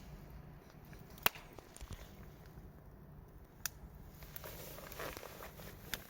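Campfire burning, with a few sharp pops of the wood: one about a second in, one past the middle and one near the end, and a soft crackling hiss building in the second half.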